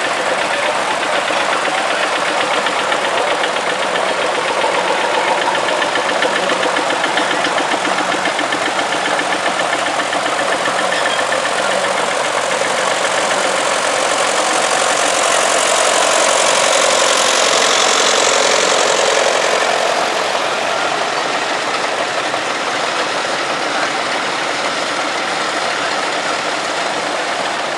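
Vintage tractor engines running as tractors drive past in procession, one growing louder and then fading between about sixteen and twenty seconds in.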